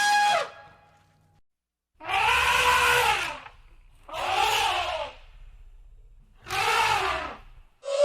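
Elephant trumpeting: a string of short, loud trumpet calls about two seconds apart, each rising and then falling in pitch.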